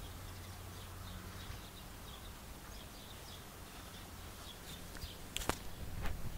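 Birds chirping faintly outdoors over a low steady hum, with a few sharp clicks about five seconds in.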